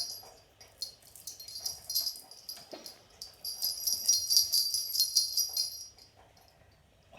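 Small jingle bell rattling in quick, irregular shakes, most continuous between about three and a half and six seconds in, then stopping.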